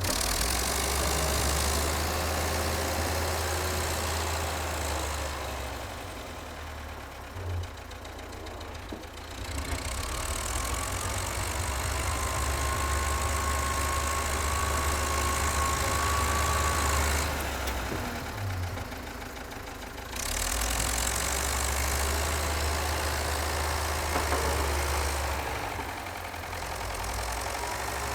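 Vintage Volvo engine running steadily, with a broad hiss over it that drops away three times for a few seconds each and a faint whine in the middle.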